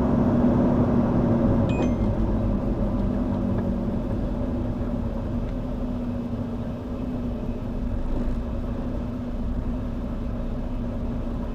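A truck's engine running steadily, a low rumble with a constant hum, slowly growing quieter. A brief high squeak sounds about two seconds in.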